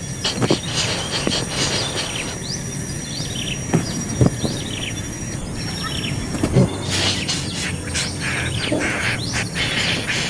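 Small birds at a nest chirping: many short, falling chirps repeated irregularly, with a thin steady high whine through the first half and a few soft knocks.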